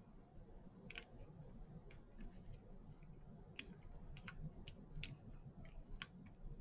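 Faint scattered clicks and light taps over a low room hum: small craft pieces being handled and set down while gluing them onto a sign.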